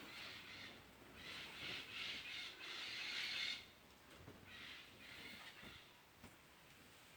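Bats calling in several scratchy, raspy bursts. The longest and loudest run of calls comes about one to three and a half seconds in, and a weaker burst follows about a second later.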